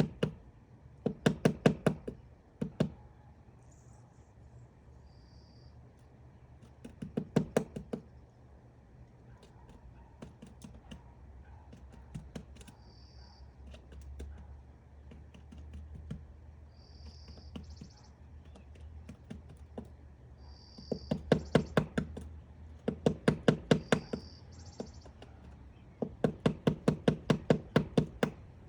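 Woodpecker hammering into wood while excavating its nest cavity: about five bouts of rapid, evenly spaced taps, each lasting one to two seconds, with longer pauses between them. Short high bird chirps sound in between.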